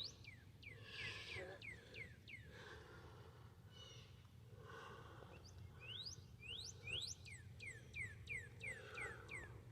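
Faint bird song: runs of short, sweeping whistled notes, a longer run of about three notes a second starting about six seconds in.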